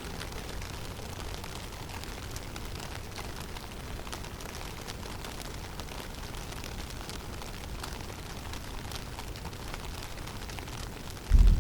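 Snowstorm wind in a forest: a steady low rumble with a faint hiss and scattered light ticks. Near the end a sudden, much louder low rumble breaks in.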